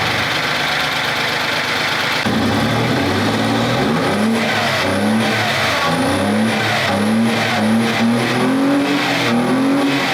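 Audi 2.8 V6 engine running loudly, revved in a string of short throttle blips from about two seconds in, each rising and dropping back.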